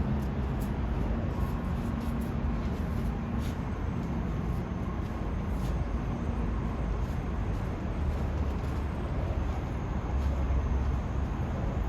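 Steady low rumble of passing vehicle traffic, with a faint high whine now and then.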